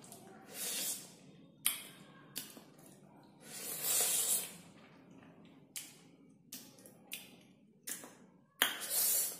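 Mouth sounds of a person eating small red Hei-yai fruits: sharp wet clicks and smacks of biting and chewing, with three longer hissing breaths or slurps about a second long each.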